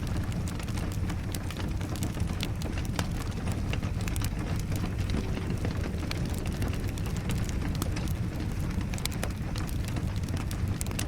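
Wood fire crackling in a fireplace, with irregular sharp pops over a steady low rumble, and rain falling.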